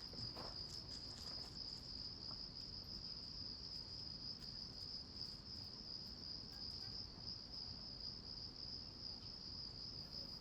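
Insects trilling in one steady, unbroken high tone.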